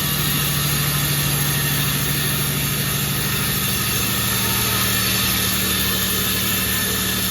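Sawmill machinery running steadily: a low, even engine hum with a steady high hiss over it.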